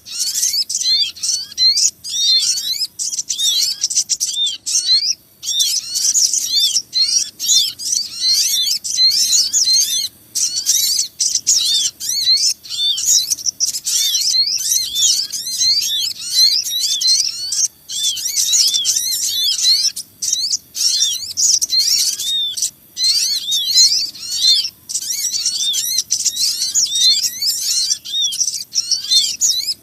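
Bird-lure recording of small birds, the sogon among them: a dense, busy chorus of rapid high-pitched chirps and short arched call notes, overlapping without pause. It is the agitated flock calling that trappers play to draw small birds in.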